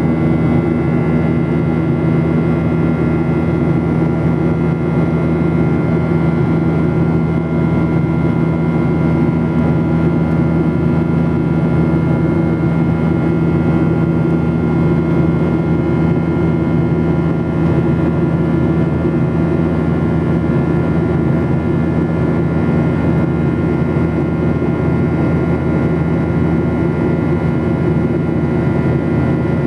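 Steady in-flight cabin drone of a Boeing 737-800: its jet engines and rushing airflow make a loud, even noise, with a low hum and several steady tones running up to a faint high whine.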